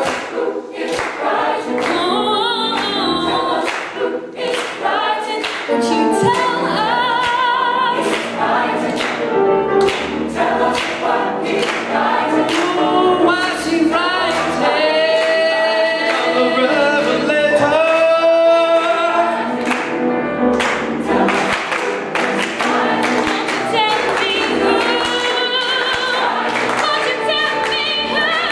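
Choir singing a piece together, several voice parts holding and moving between notes.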